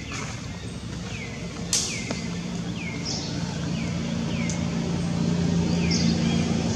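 A bird calling over and over in short downward-sliding whistles, a little faster than once a second, over a steady low motor hum that grows louder toward the end. A single sharp click comes a little under two seconds in.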